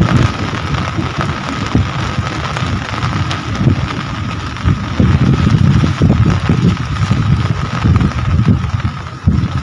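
Steady rain falling, with an uneven low rumble that swells and dips underneath it.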